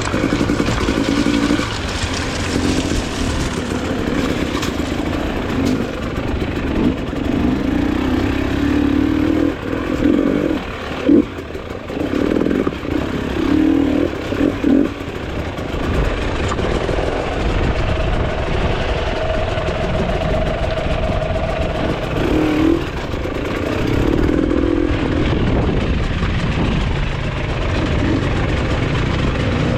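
Enduro motorcycle engine running with the throttle repeatedly opened and closed, its pitch rising and falling. A sharp knock stands out about eleven seconds in.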